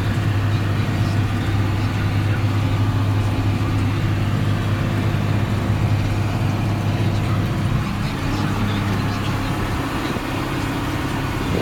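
Engine running steadily at an even speed, a deep, constant hum.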